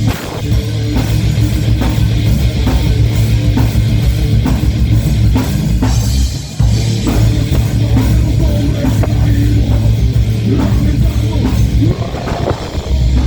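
Heavy rock band playing live: pounding drums, distorted electric guitars and bass, with a brief break about six and a half seconds in.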